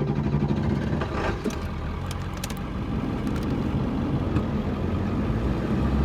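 Truck driving at steady speed: an even engine drone with road noise.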